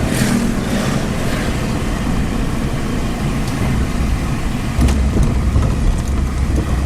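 Road and engine noise inside a small car's cabin while driving, a steady rumble of tyres and motor that gets heavier and deeper about five seconds in.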